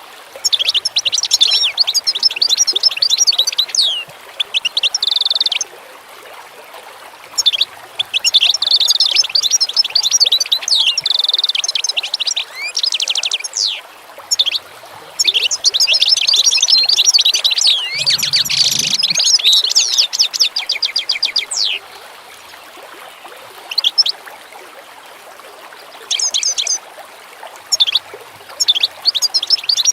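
Songbirds singing in long bouts of rapid chirps and trills, with pauses of a second or two between bouts, over a steady faint background hiss.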